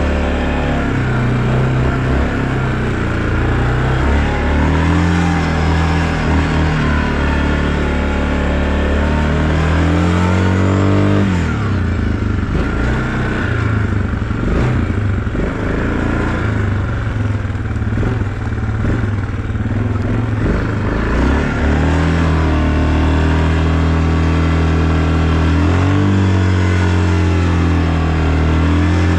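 Off-road vehicle engine running hard under throttle while riding, its revs rising and falling. The pitch drops off about a third of the way in and climbs again near the end.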